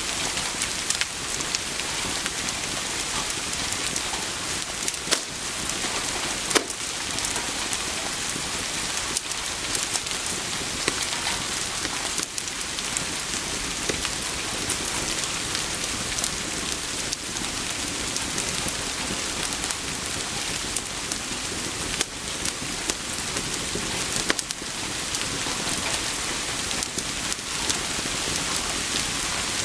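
Steady rain, a dense even hiss, with a few sharp pops standing out here and there.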